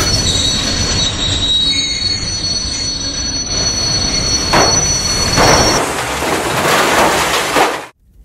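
Train under hard braking, its wheels squealing in steady high-pitched screeches over a loud rumble, because it cannot stop in time. From about four and a half seconds in, louder noisy crashing takes over, the sound of the train wrecking, and then it cuts off suddenly just before the end.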